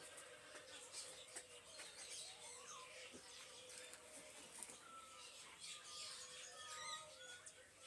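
Many birds chirping and calling faintly, with short chirps, sliding whistles and quick trilled series overlapping.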